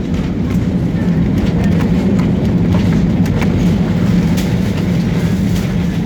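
Inside an airliner's cabin during the landing roll: a loud, steady rumble of the engines and wheels on the runway, with light rattles.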